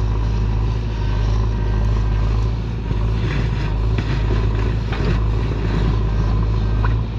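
Heavy diesel machinery engine running steadily, a deep continuous hum, with some short scrapes and knocks a few seconds in.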